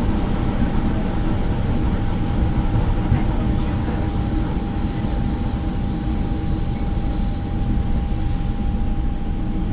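Passenger train running on the rails, heard from inside the carriage: a dense, steady rumble of wheels and car with a constant whine. A thin high-pitched squeal comes in about a third of the way through and fades near the end.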